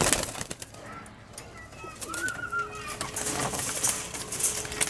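Domestic pigeons cooing, with scattered clicks and rustling among them.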